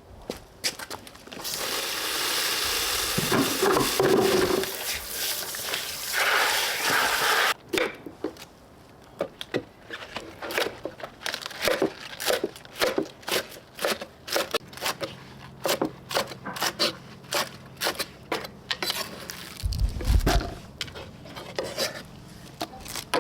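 Cooking sounds: several seconds of loud hissing, then a long run of sharp knocks and clinks, about two or three a second, like utensils working in a pot or on a board.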